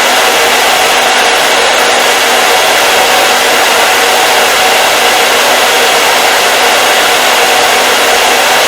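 Hair dryer running steadily: an even, unchanging rush of blown air with a faint hum from the motor.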